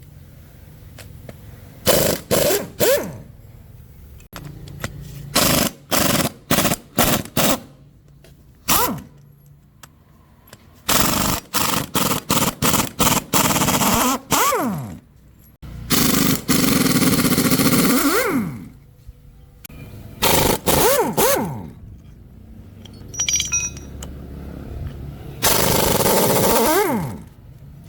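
Pneumatic impact wrench hammering in repeated bursts, from short blips to runs of two or three seconds, its pitch falling as it spins down after each trigger release.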